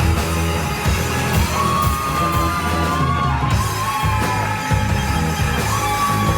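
Indie rock band playing live: drums and bass under a held high melody line that slides and bends in pitch, first from about a second in and again near the end.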